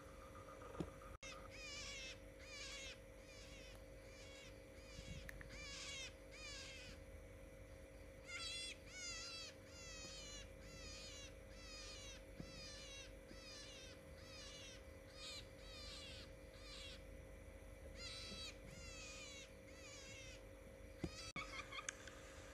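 A bird calling over and over in short bursts of quick, downward-sliding chirps, about one to two bursts a second, over a faint steady hum. A different call comes in near the end.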